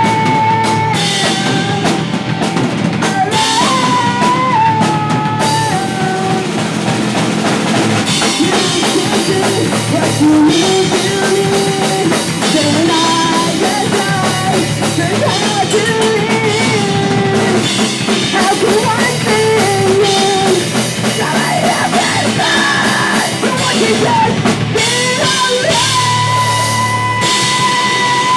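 Pop punk band playing live, loud and continuous: distorted guitars, bass and a full drum kit, with a lead melody that may be singing, and a long held note near the end.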